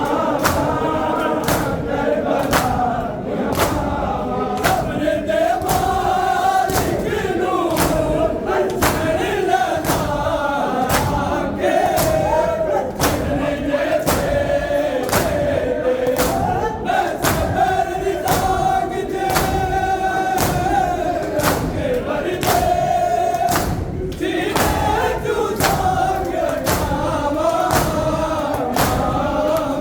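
A crowd of men chanting a Muharram noha (mourning lament) together, over rhythmic strikes about twice a second, typical of matam chest-beating.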